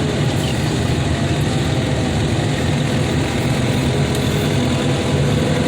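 Engine of a heavy machine running steadily at a constant speed, heard close up as from the operator's seat.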